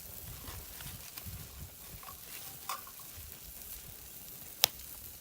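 Meat sizzling on a charcoal grill, a steady frying hiss with faint ticks. A single sharp click sounds near the end.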